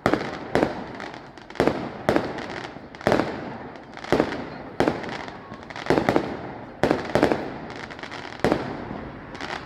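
Display fireworks going off in quick succession: about a dozen sharp bangs, one every half second to a second, each trailing off in a rumbling echo.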